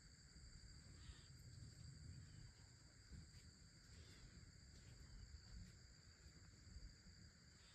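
Faint steady chorus of insects, a continuous high buzz, over a low rumble, with a few faint short chirps scattered through.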